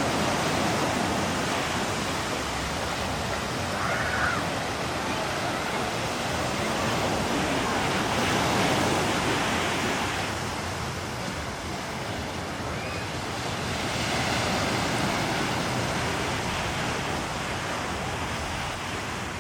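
Gulf of Mexico surf washing onto the beach: a steady rushing wash that swells and eases in slow surges, with a few faint short chirps.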